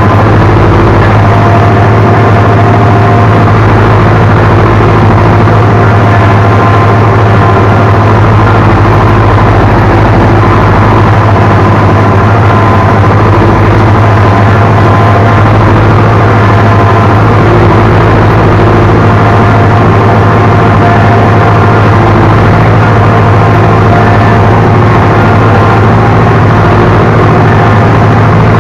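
Ursus C-360 tractor's four-cylinder diesel engine running steadily under load while pulling a plough, heard from the operator's seat.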